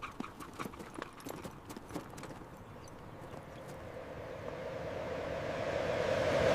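Horse's hooves clip-clopping at a walk, a string of sharp ticks over the first few seconds. Then a rushing noise swells steadily, loudest near the end, and cuts off suddenly.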